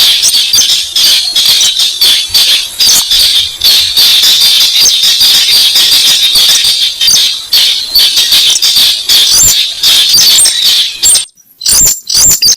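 Lure call of the weris bird: a fast, continuous series of sharp clicking notes, loud throughout, that stops abruptly about 11 seconds in, followed by a few isolated clicks near the end.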